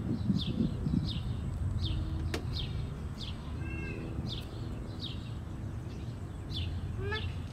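A bird chirping over and over, each call a short falling note, about one every two-thirds of a second, over a steady low outdoor rumble. Near the end, shorter, lower chirps join in.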